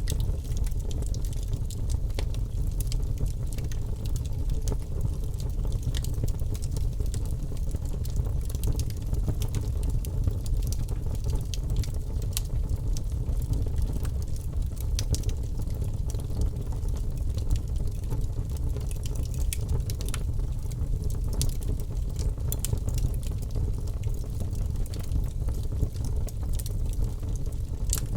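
Wood fire crackling in a fireplace, scattered sharp pops and snaps over a steady low rumble.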